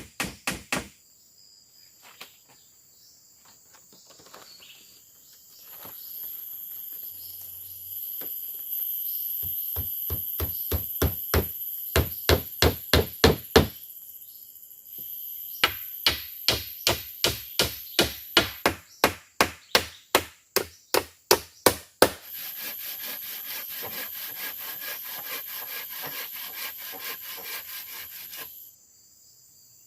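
Repeated blows on wood, about three a second, in two runs of strikes, as when chopping or driving wood with a blade or mallet. Forest insects drone steadily with a high whine, and a dense buzz follows the chopping.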